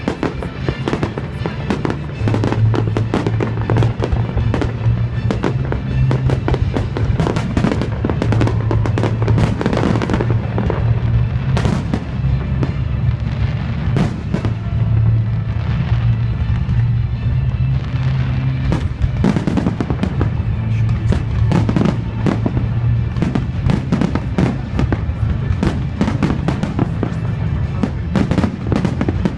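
Fireworks display: rapid, irregular bangs and crackles of shells bursting, many per second, over loud music with a steady bass.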